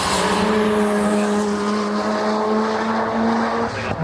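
Race car engine held at high revs, its note climbing slowly in pitch; just before the end it breaks off abruptly and a lower, steady engine note takes over.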